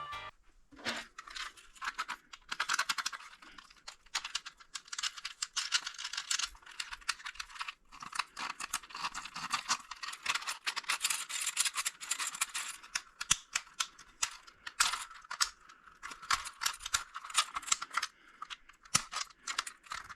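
A 3D-printed plastic 10-in-1 fidget toy being worked by hand: quick runs of small clicks and rattles, broken by a brief pause about eight seconds in.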